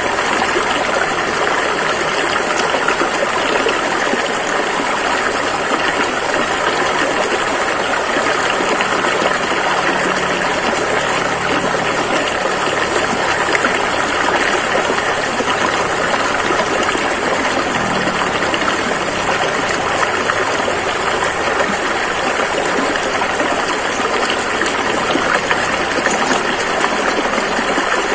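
Rushing river water flowing steadily, an even full hiss without a break.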